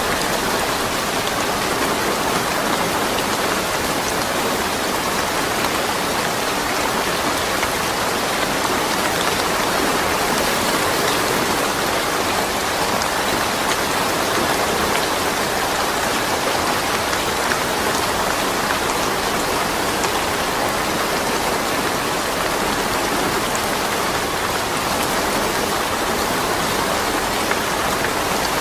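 Steady rain falling, an even patter of drops without thunder.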